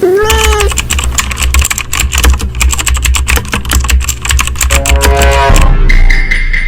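A cat meows once, then fast, continuous computer-keyboard typing clatters for about five seconds over a low steady drone. Near the end the typing stops and held tones take over.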